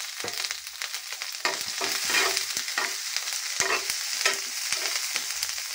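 Garlic, ginger and green chilli sizzling in hot oil in an iron kadhai, with a steady high hiss. A metal spoon stirs them, scraping the pan in repeated short strokes.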